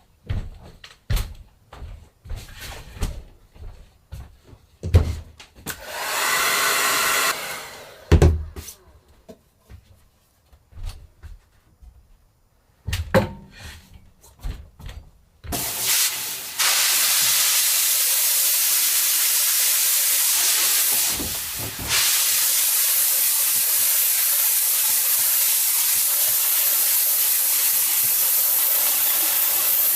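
Knocks and clicks of handling, a short hiss about six seconds in, then from about halfway a steady, loud hiss of water spraying. This is a spray of water washing out a silkscreen stencil during plate-making, with a brief break a few seconds after it starts.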